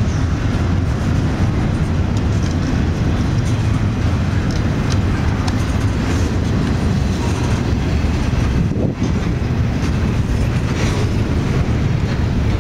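CSX Q170 double-stack intermodal train rolling past at close range: a steady, loud rumble of steel wheels on rail and well cars, with a few faint clicks scattered through it.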